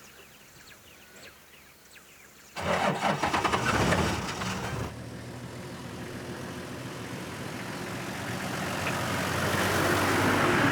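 A vehicle engine starts abruptly a little under three seconds in, then keeps running, growing steadily louder.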